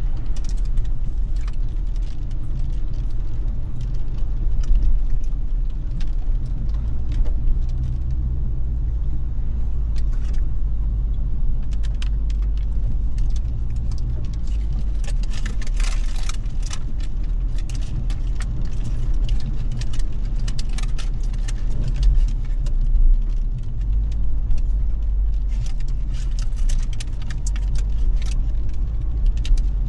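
A car driving in the rain: a steady low road and engine rumble with many small ticks and patters of rain on the glass and body, busiest twice along the way.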